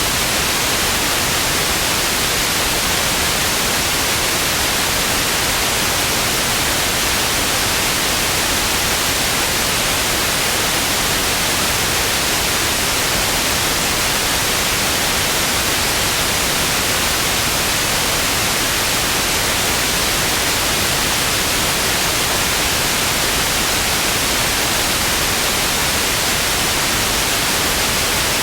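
Television static: a steady, even hiss of white noise with no changes, strongest in the high treble.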